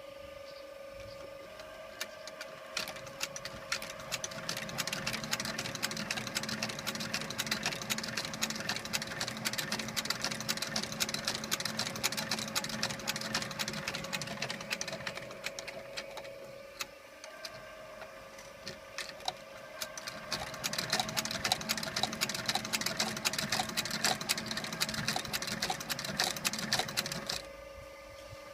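Claes 213 industrial saddler's sewing machine stitching: a rapid clatter of needle strokes over a steady motor hum, in two long runs with a pause of a couple of seconds about two-thirds of the way through.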